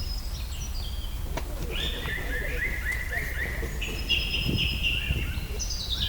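A chorus of many birds chirping and trilling, short high calls overlapping one another, over a steady low rumble.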